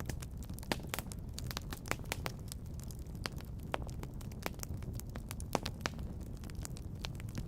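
Wood fire in a fireplace crackling, with sharp, irregular pops several times a second over a steady low rumble.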